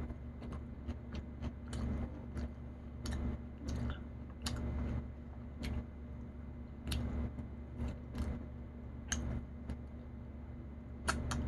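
Close-up eating sounds: chewing with irregular small clicks and smacks of the mouth and fingers being licked, over a steady low hum.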